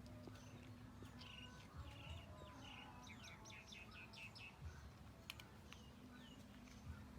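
Faint bird chirps, with a quick run of high, falling chirps in the middle, over a low steady hum and a few faint clicks.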